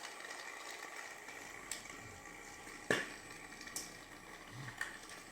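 Quiet room tone broken by four faint, short clicks, the loudest about three seconds in.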